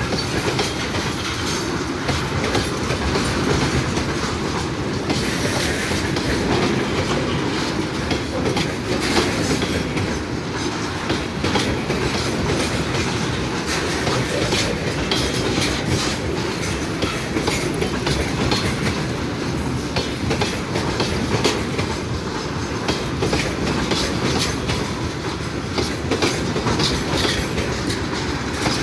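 A train rolling past close by, with a continuous rumble of wagons and steady clickety-clack of wheels over the rail joints.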